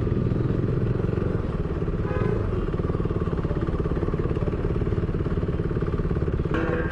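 Motorcycle engine running at a steady, even speed while riding, picked up by a helmet-mounted camera.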